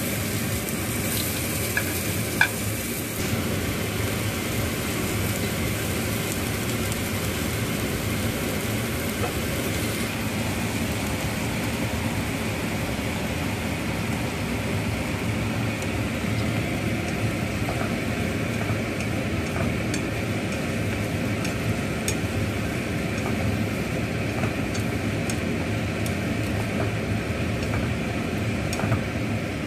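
Steady sizzle of stir-frying in oil in a nonstick pan: sliced shallots, then tempe cubes with green chillies, stirred with wooden chopsticks. A single sharp knock about two seconds in.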